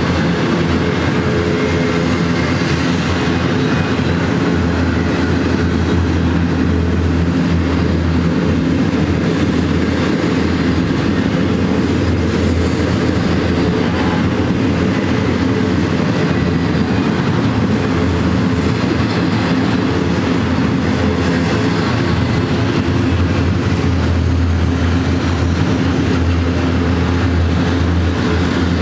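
Double-stack intermodal well cars loaded with shipping containers rolling steadily past, with a continuous loud rumble of steel wheels on the rails.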